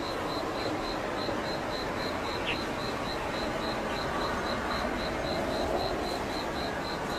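Steady outdoor background hiss with a high, even chirping pulse repeating about four to five times a second throughout.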